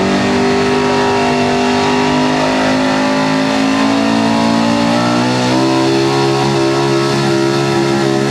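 Modified 4x4 pulling truck's engine held at high revs under load during a pull, its pitch creeping slowly upward and then jumping higher about five seconds in.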